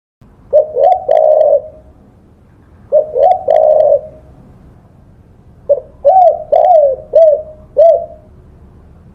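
Spotted dove (tekukur) cooing in three phrases of low, arched coo notes. The first two are short, ending on a held note, and the third is longer, with five or six quick notes. A faint low hum runs underneath.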